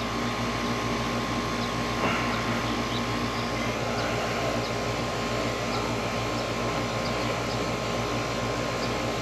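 Air conditioner's outdoor condensing unit running steadily, compressor hum and condenser fan, as refrigerant is charged into a low system; the compressor is sounding a little better. A light click about two seconds in.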